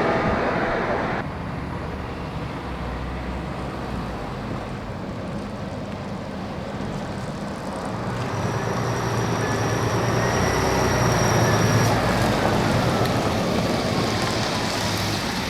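A road vehicle driving past, its engine and tyre noise building to a peak about twelve seconds in and then easing off, with a faint whine that falls in pitch as it goes by.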